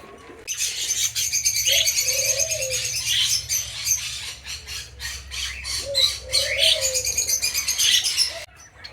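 Flock of small parrots, parakeets and cockatiels, chirping and chattering without pause, with doves cooing twice at a much lower pitch, once about two seconds in and again about six seconds in. The chattering breaks off briefly just before the end.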